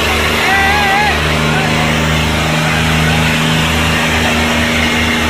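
Tractor diesel engine running steadily under heavy load, with a brief wavering high call over it about half a second in.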